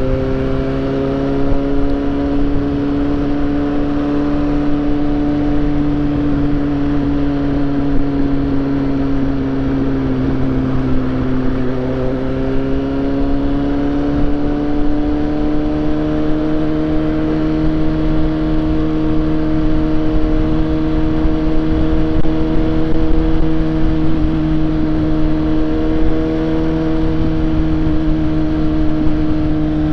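Suzuki GSX-S750's inline-four engine running at a steady cruise, heard from the rider's seat; its pitch sags about ten seconds in, then climbs gradually and holds steady for the rest of the time.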